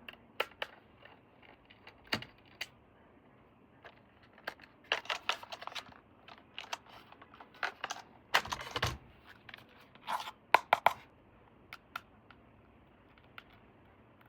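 Toy packaging being handled and opened: irregular sharp clicks and short crinkling, tearing rustles of plastic and cardboard, bunched into a few busier spells.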